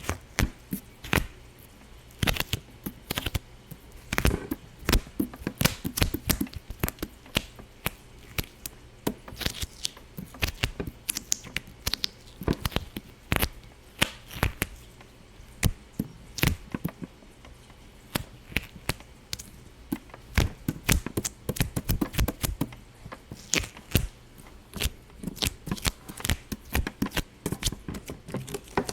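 Irregular sharp popping, several pops a second at uneven intervals, some much louder than others.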